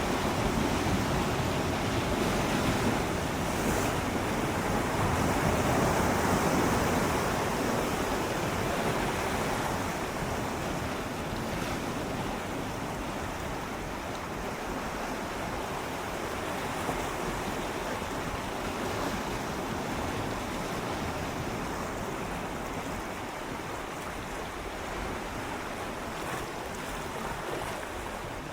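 Gentle sea waves swirling and lapping against shoreline rocks, a steady wash of water that swells over the first few seconds and then eases off.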